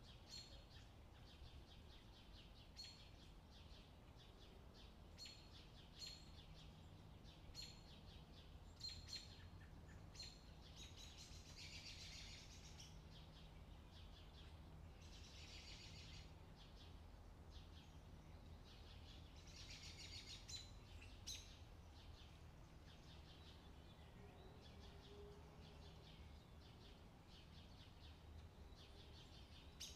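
Faint bird chirps, short and high, repeating every second or two, with three longer twittering bursts, over a low steady hum.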